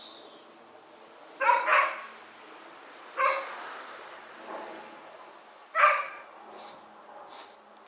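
A dog barking in short, sharp barks: a quick double bark, then two single barks a couple of seconds apart.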